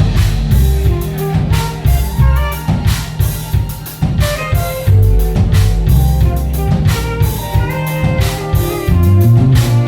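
Music: a saxophone playing a melody over a backing track with drum kit and bass.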